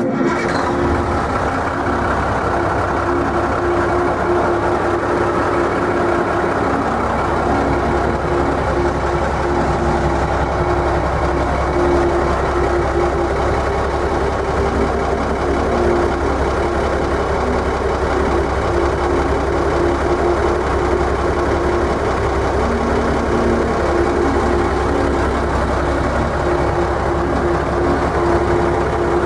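M818 military 6x6 cargo truck's diesel engine idling steadily.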